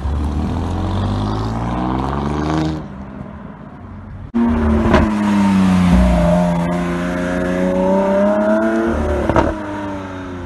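Alfa Romeo Giulia Quadrifoglio's twin-turbo V6 accelerating past, its pitch climbing before it fades. Then, louder, a Lamborghini Aventador's V12 revving as it pulls away, its pitch dipping and rising again, with two sharp cracks.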